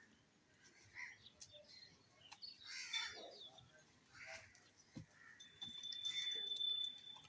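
Birds calling in short, scattered calls. A steady high whistling tone joins them over the last two seconds.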